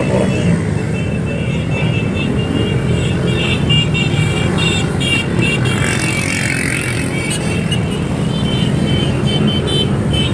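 Motorcycle engines running steadily in a group ride, with music playing over them.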